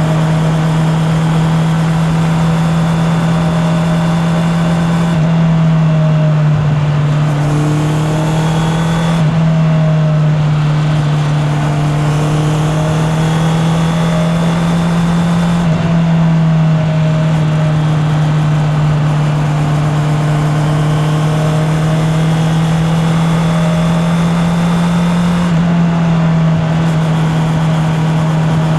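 Honda CB650R's inline-four engine running on the road, a steady note with wind rush. Its pitch dips briefly about four times and climbs slowly in between, as the bike gets back on the throttle.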